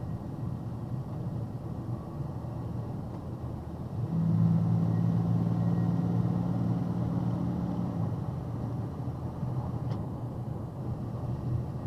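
Hard rain with a car's steady low rumble. A louder, even drone rises about four seconds in and drops back about four seconds later.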